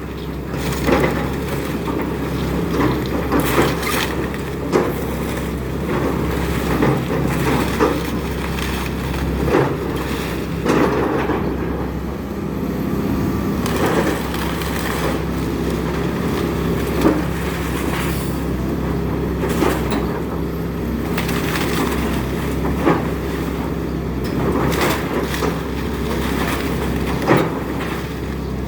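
Excavator's diesel engine running steadily while a wooden house is torn down, with many scattered sharp cracks, splintering and thuds of breaking timber.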